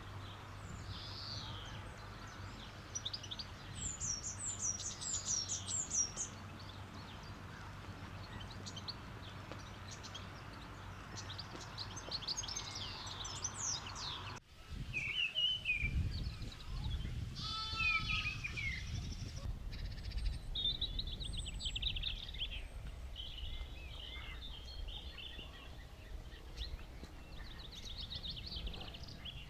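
Small birds chirping and trilling throughout, with a sheep bleating once, a wavering call, a little past halfway.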